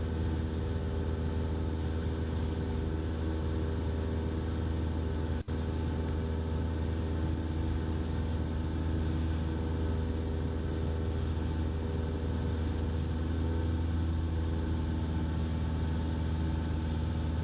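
Cessna 172's piston engine and propeller droning steadily in the cabin during cruise, an even, unchanging drone. A brief dropout cuts the sound for an instant about five and a half seconds in.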